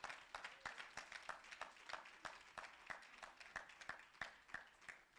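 Congregation applauding, faint, the clapping thinning out and dying away near the end.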